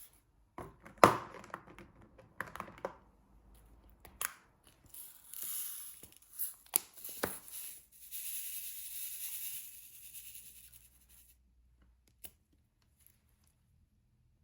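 Hands handling diamond painting supplies: a few sharp taps and clicks, the loudest about a second in, then two stretches of crinkling and rustling in the middle.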